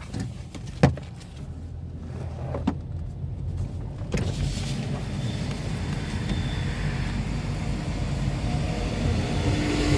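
Car's engine running low and steady, with a sharp click about a second in and a smaller one later. About four seconds in, the car wash tunnel's machinery starts up and a steady rushing noise builds over it.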